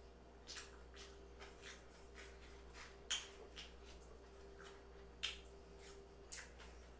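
Close-up eating sounds as fries are chewed: faint wet smacks and clicks every half second or so, with two louder smacks about three and five seconds in.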